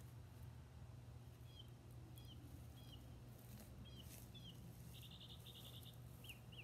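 Faint bird chirps: short single notes repeating about every half second, with a quick rattling run of notes about five seconds in, over a steady low hum.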